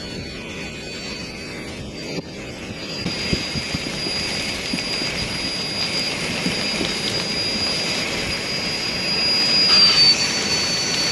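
Strong blizzard wind blowing hard, growing louder about three seconds in and gusting strongest near the end, with a thin steady high whine running through it.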